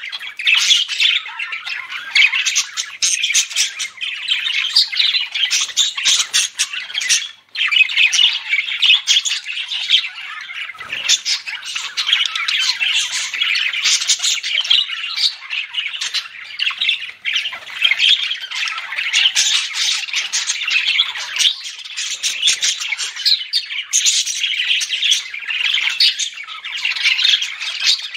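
Budgerigars chattering and warbling in a dense, continuous stream of rapid chirps and squawks, with a brief lull about seven seconds in.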